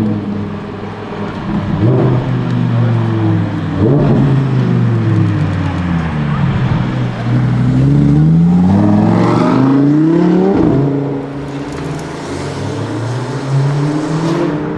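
Lamborghini Huracan STO's naturally aspirated V10 running hard on track: the revs climb and break at gear changes about two, four and ten and a half seconds in. The pitch falls away between those climbs.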